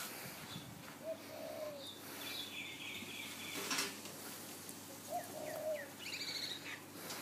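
Birds calling: a dove cooing twice, soft and low, with a small bird chirping higher just after each coo.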